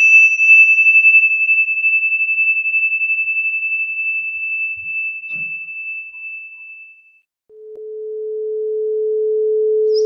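A single high-pitched metal chime tone rings and slowly dies away, wavering slightly, over the first seven seconds. About seven and a half seconds in, a pure 432 Hz sine tone swells in and then holds steady.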